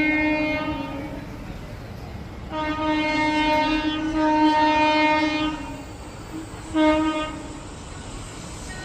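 Locomotive horn sounding: a blast that ends about a second in, a long blast of about three seconds, then a short toot near the end.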